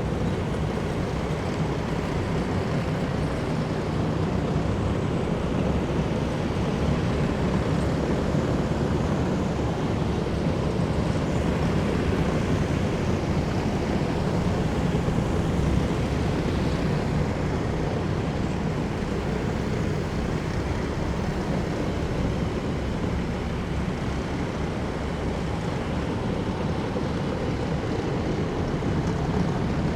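A column of heavy military vehicles driving past: a steady rumble of engines and tyre noise, swelling slightly about halfway through.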